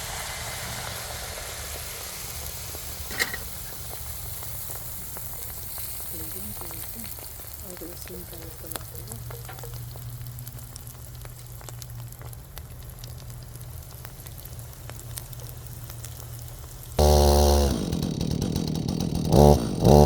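Tractor engine running steadily at a distance under a steady hiss. About three seconds before the end, a much louder engine starts up close by and revs up and down.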